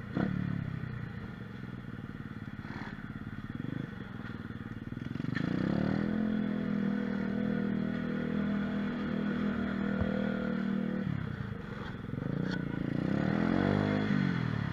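Small single-cylinder 125cc mini moto (pit bike) engine: it runs low at first, then revs up and holds steady revs for about five seconds in the middle, drops back, and rises and falls once more near the end.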